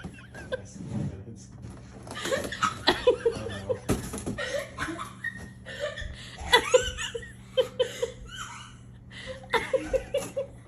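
People laughing in several bursts of short, rapid "ha-ha" pulses.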